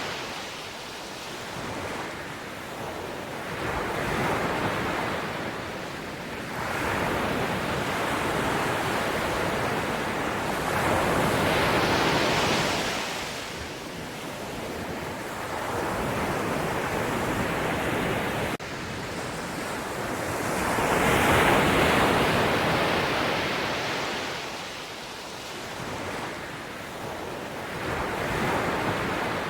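Ocean waves breaking and washing on a shore, rising and falling in slow surges every few seconds; the biggest swells come a little before the middle and about two-thirds of the way through.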